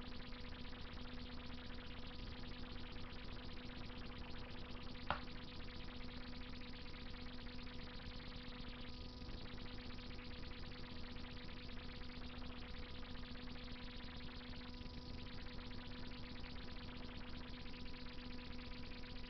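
Wood fire crackling steadily in a Russian masonry stove, with one sharp pop about five seconds in, over a steady low hum.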